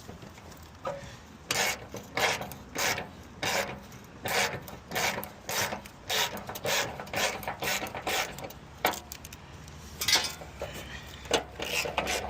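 Repeated rasping scraping strokes, about one and a half a second, with a short pause partway through.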